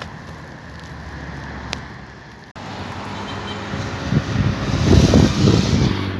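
Abu Qir commuter train running, a low rumble that breaks off abruptly about two and a half seconds in, then builds again and is loudest near the end before settling back to a steady hum.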